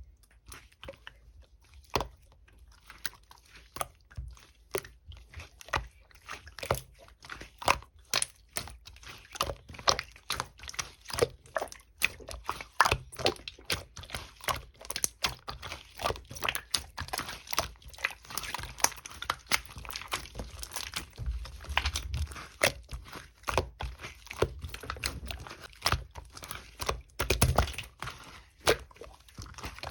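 Clear slime being pressed, poked and squished by hand, giving an irregular run of sticky clicks and crackles, several a second.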